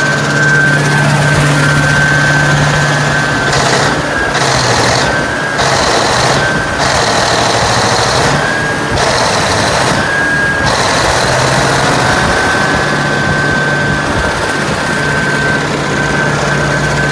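Engine running steadily with a constant high whine. From about three seconds in until about eleven seconds in, a harsher mechanical clatter swells and drops away several times.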